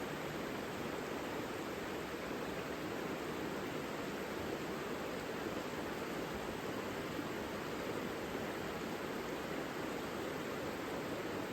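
The Savica river flowing: a steady, even rush of water with no breaks.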